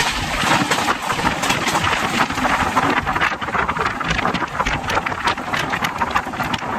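Express train running on the track, heard from on board the coach: a steady rush of wind and rail noise with many small rattles and clicks throughout.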